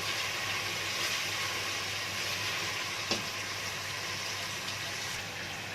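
Diced onion and garlic sizzling steadily in ghee in a pot as the onion softens, with one brief click about three seconds in.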